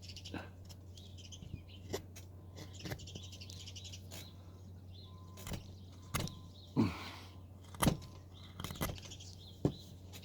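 House finches chirping, with sharp clicks and short scrapes of a carving knife cutting into wood every second or two.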